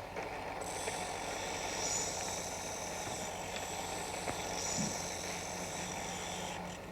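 RX Companion disc honing machine running, with the steady scraping hiss of a curette's round toe being sharpened against the spinning disc. The hiss starts about half a second in and stops shortly before the end.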